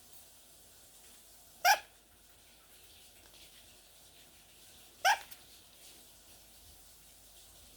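Lovebird giving two short, loud bark-like calls, about three and a half seconds apart.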